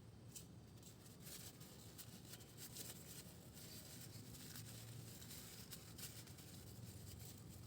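Near silence: faint scattered clicks over a low hum.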